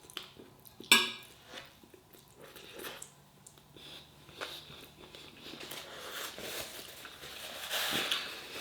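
Eating sounds: a sharp clink of cutlery against a dish about a second in, then quiet chewing and scraping of food, with louder mouth noise near the end.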